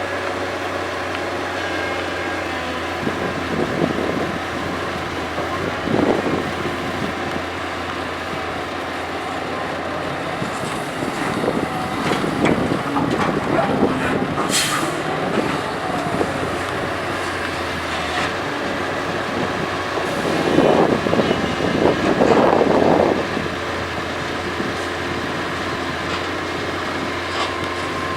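Doosan DX225LCA hydraulic excavator's diesel engine running steadily while it loads soil into a ten-wheel dump truck, with several louder rough rumbling bursts as loads of earth are dug and dropped. A short sharp hiss comes about halfway through.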